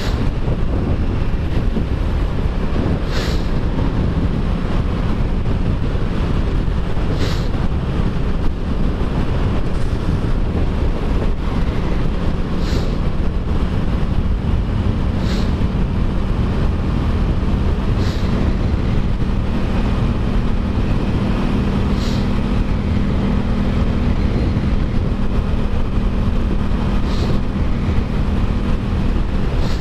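Motorcycle cruising at speed: heavy wind rush on the microphone over the steady hum of the Aprilia Tuono 660's parallel-twin engine, with a few brief hisses every few seconds.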